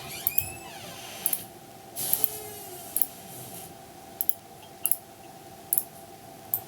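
A series of sharp clicks, about one a second and some in quick pairs, over a steady hum, with a brief high falling squeak near the start.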